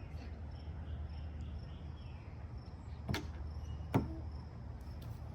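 Quiet outdoor ambience: a steady low rumble with faint high-pitched chirping coming and going, broken by two sharp clicks about a second apart around three seconds in.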